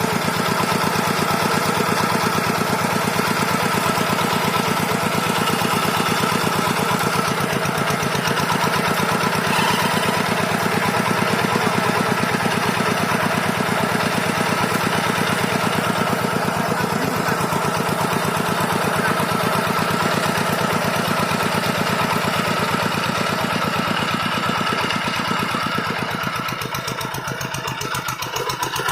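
Tractor engine running steadily with a fast, even firing beat, easing a little near the end.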